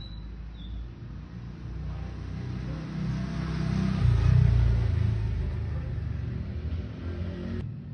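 Motorcycle engine running, growing louder to a peak about four seconds in and then easing off, before cutting off suddenly near the end.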